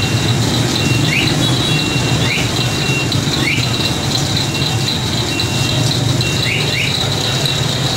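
Pork-skin slicing and shredding machine running: a steady motor hum with a constant high whine, broken by short squeaks and chirps every second or so.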